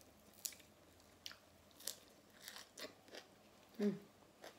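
Close-up chewing of noodle soup with pork and shrimp: wet mouth clicks and smacks about every half-second, with a short low hum a little before the end.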